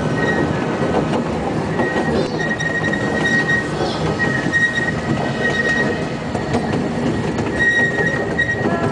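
Steam train running along its track with a steady rumble. A thin, high squeal comes and goes above it.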